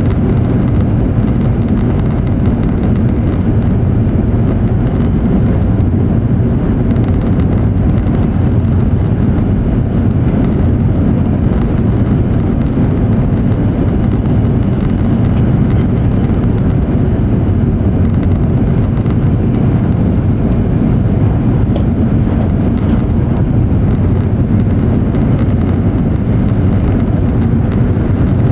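Steady low rumble and rushing noise of an E7 series Shinkansen running at speed, heard from inside the passenger car.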